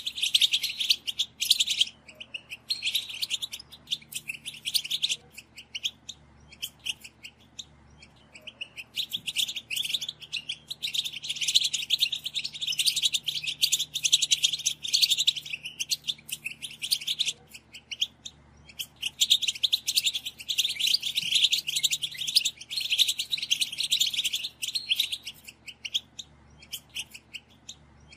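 A group of European goldfinches chattering: rapid twittering calls in bursts of a few seconds with short pauses between them. This is the excited group chatter used to stir male goldfinches into song.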